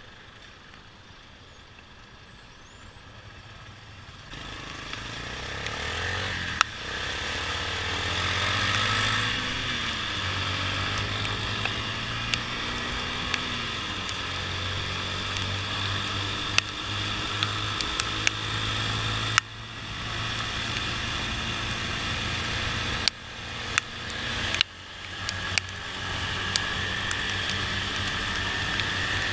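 Motorcycle engine and riding noise. The engine runs quietly at first, then picks up sharply about four seconds in and keeps running steadily under a hiss of wind and wet road. Near the end the engine sound cuts out sharply three times and climbs back each time.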